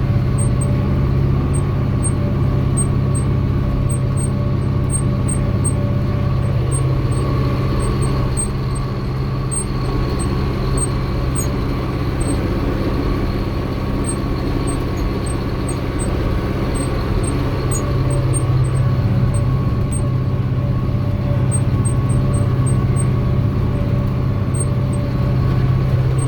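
Fiat 72-94 tractor's diesel engine running steadily under the load of ploughing, a deep drone with a steady higher whine over it.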